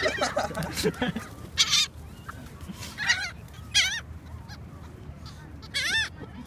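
Gulls calling: about four loud, separate calls with a wavering pitch, a second or two apart.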